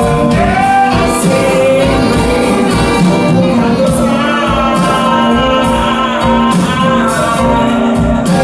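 Blues band playing live in an instrumental passage between sung verses, a lead melody line bending and holding over the band's steady backing.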